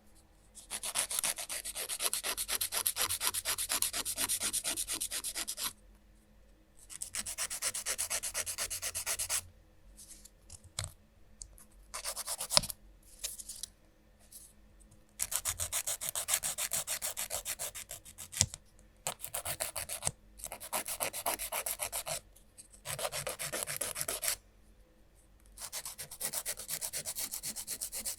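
A nail file rasping rapidly back and forth across fingernails, in runs of a few seconds with short pauses between them.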